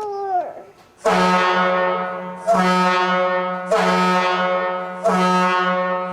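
Cement mixer truck's air horn blown by pulling its cord, four loud blasts in quick succession, each a steady multi-note honk with a low hum under it.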